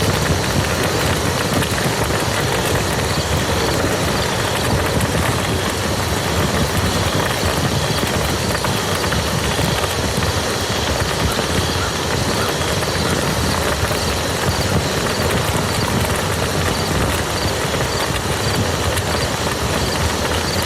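Steady rain falling on a muddy field, a dense, even patter of drops.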